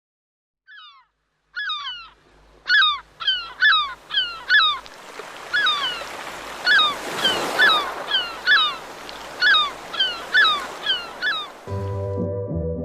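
Birds calling over and over in quick squawks, each dipping in pitch, about one or two a second, over a hiss that swells and fades in the middle. Near the end, plucked-string music begins.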